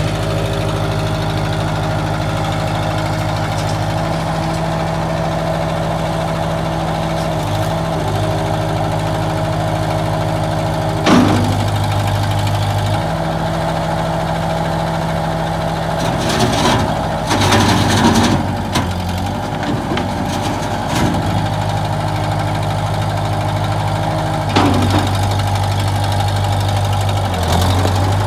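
Bobcat 753 skid-steer loader's diesel engine running steadily, with a sharp knock about eleven seconds in and bursts of clatter in the second half.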